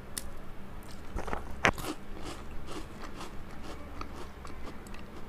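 Someone biting into and chewing a crunchy chocolate-coated cream biscuit (a Milky Pie): a sharp crunch a little under two seconds in, then smaller crunching clicks as it is chewed.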